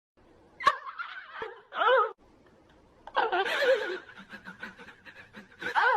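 A person laughing in short bursts, several seconds apart.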